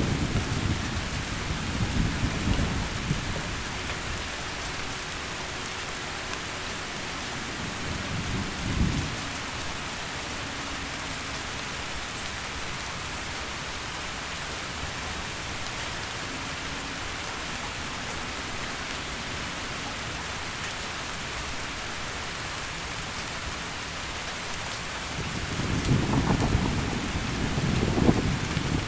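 Heavy rain falling steadily, with low rolls of thunder rumbling at the start, briefly again about nine seconds in, and a longer roll near the end.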